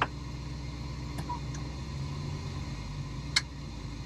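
Pickup truck engine running steadily with a low hum, heard from inside the cab, with a few sharp clicks or rattles, the loudest about three and a half seconds in.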